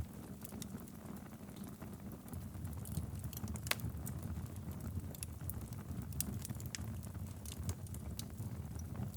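Wood fire burning in a fireplace: a steady low rumble of the flames with irregular sharp crackles and pops, one louder pop a little before the middle.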